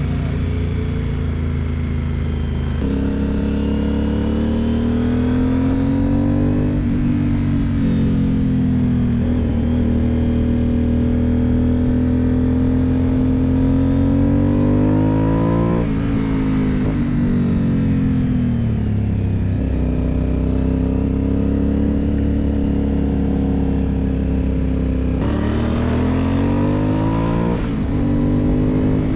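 Aprilia Dorsoduro 750 V-twin engine heard onboard, its revs climbing steadily and then dropping sharply several times as the rider changes gear and rolls off the throttle. Between the climbs the pitch falls slowly under engine braking.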